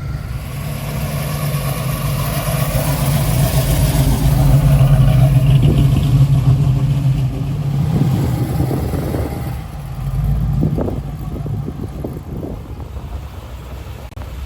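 Car engine running with a steady low note, growing louder over about five seconds and then easing off, as a car moving past would.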